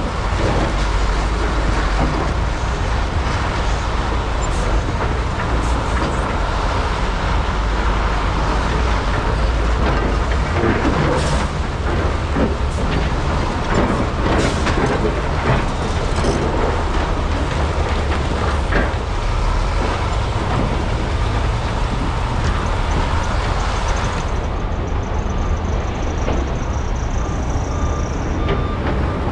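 Komatsu PC395 and SANY SY485H hydraulic excavators working together in a mine: their diesel engines run under load in a steady low rumble, with scattered knocks and clanks of rock and bucket.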